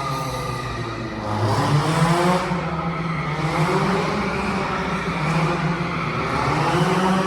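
A performance car's engine revving through a drift: the revs dip, climb again about a second and a half in, hold, then rise once more near the end.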